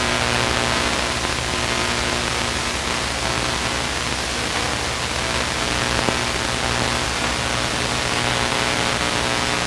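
Steady in-flight cockpit noise of a Luscombe light aircraft: an even hiss with a constant low engine hum beneath it, unchanging throughout.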